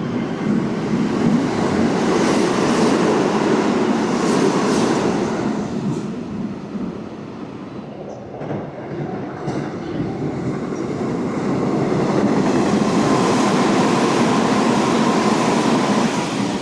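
Hanshin Railway electric train running through the station, its wheels rumbling loudly on the rails. The rumble eases for a few seconds in the middle, then builds again before falling away near the end, with a faint steady whine in the later part.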